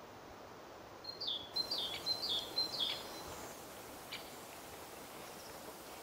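A bird calling: a quick run of four high chirps, each falling in pitch, about a second in, then one short note a second later, over a steady outdoor hiss.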